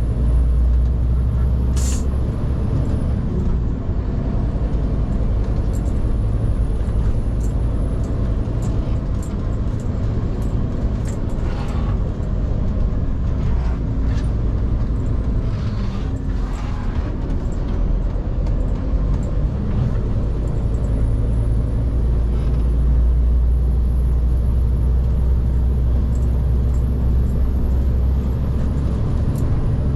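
Scania P360 XT truck's five-cylinder diesel running steadily under way, a continuous low drone. There is a short hiss about two seconds in, and scattered clicks and rattles over it.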